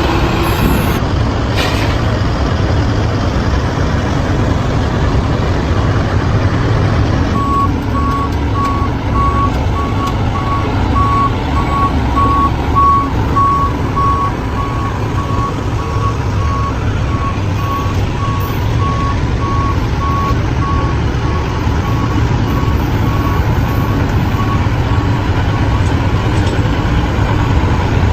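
Dump truck engine running steadily. A little over a quarter of the way in, its reversing alarm starts a regular series of short beeps, which grow fainter and die away before the end.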